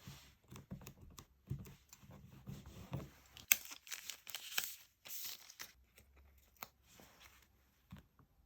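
Paper being torn and crinkled by hand: irregular rustling with sharp snaps, densest and loudest from about three and a half to five and a half seconds in, then thinning out.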